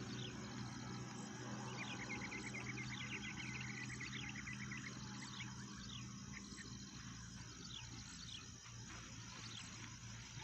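Birds singing: short falling chirps repeated over and over, with a quick run of chirps about two seconds in, over a steady high insect drone and a low hum.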